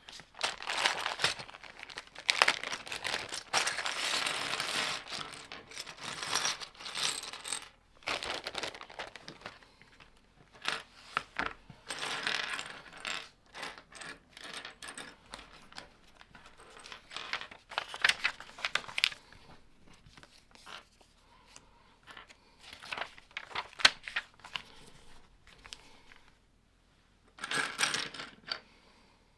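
Plastic Lego bricks being handled: pieces clatter, tap and click together in irregular bursts, with stretches of busier rummaging.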